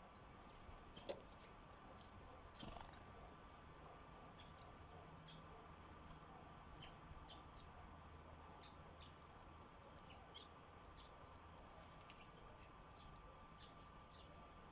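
Sparrows chirping faintly, with short high chirps scattered throughout, over a faint steady hum. There is a sharp click about a second in.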